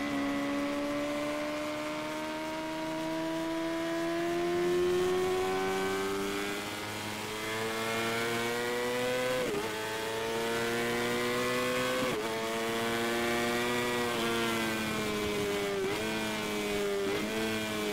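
Sportbike engine at speed on a race track, its pitch climbing slowly through a long pull, then dropping sharply at two gear changes about ten and twelve seconds in, with two shorter dips near the end.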